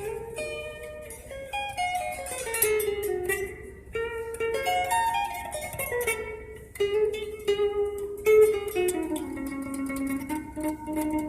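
A plucked string instrument playing a melody of picked notes that ring on and overlap one another.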